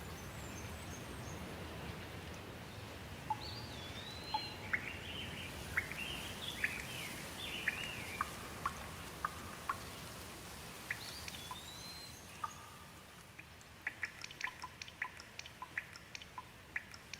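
Steady rain with birds calling over it: a whistled note that rises and falls, heard twice, with a run of quick chirps between. Near the end the rain thins and a rapid scatter of short sharp ticks takes over.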